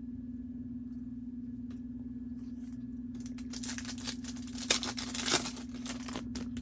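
Trading-card pack wrapper torn open and crinkled: a quick run of rips and rustles starting about halfway in, with two sharper tears, over a steady low hum.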